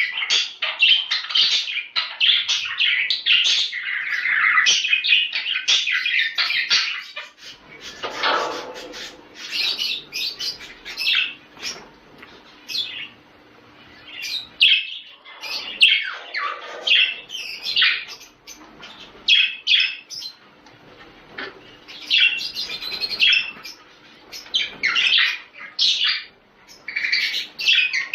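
Budgerigars chattering and warbling, a dense run of overlapping chirps for the first several seconds, then more broken chirping with short pauses.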